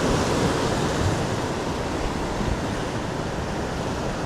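Ocean surf washing steadily against the shoreline, with a steady rush of noise.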